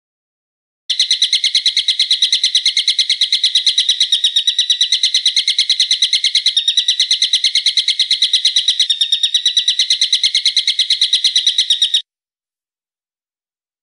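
A bird's call: a fast, unbroken run of sharp, evenly repeated notes, about eight a second, that starts abruptly about a second in and cuts off abruptly about eleven seconds later, like an edited recording for training songbirds.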